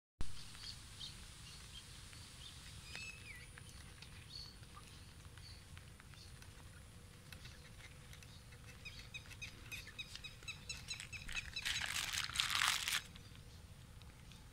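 Birds calling in the open: scattered short chirps, then a quickening run of repeated high chirps, ending about twelve seconds in with a loud harsh rasping burst just over a second long. A steady low rumble runs underneath.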